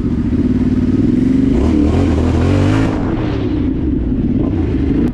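Dirt bike engine idling, revved up once about two seconds in and then dropping back to idle.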